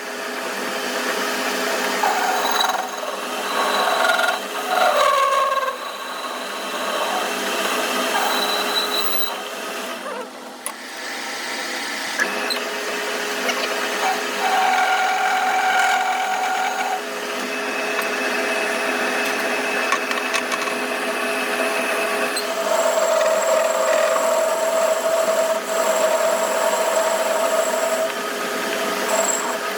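Power tool working metal in a workshop, a steady machining noise with shifting squealing tones. It eases briefly about ten seconds in and then runs on.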